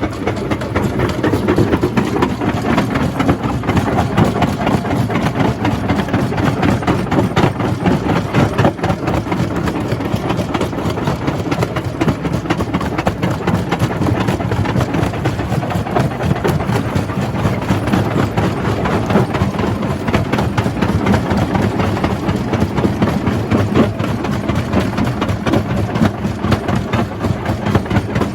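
Jaw crusher running and crushing rock: a loud, steady mechanical din thick with rapid crunching knocks.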